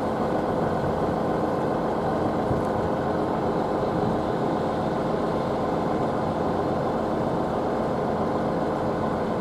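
Diesel multiple unit engines running steadily at the station, a constant low hum with a few held tones and no change in level.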